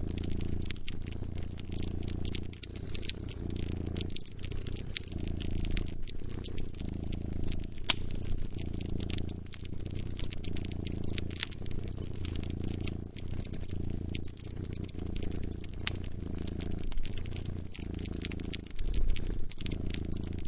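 Domestic cat purring close up, its low rumble swelling and fading with each breath every second or two, over a wood fire crackling with many sharp pops.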